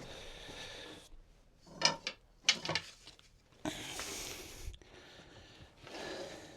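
Wooden rods scraping and rubbing against wood in three long hissy strokes, with a few light knocks of wood on wood in between.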